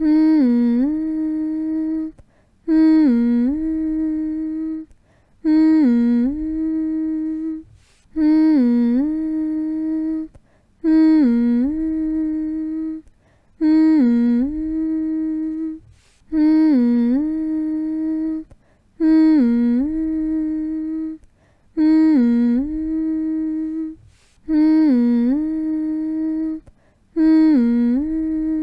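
A person humming a soothing lullaby-style phrase to lull a baby to sleep. The same short phrase repeats about every 2.7 seconds with a brief pause between. Each phrase is a held note that dips down in pitch and comes back up, then holds again.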